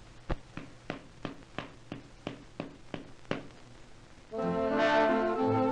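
A steady run of sharp clicks, about three a second, then about four seconds in, brass band music starts up with held notes.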